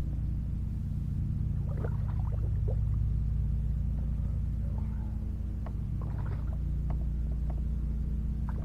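A steady low hum, several even tones, with a few faint ticks and short chirps over it.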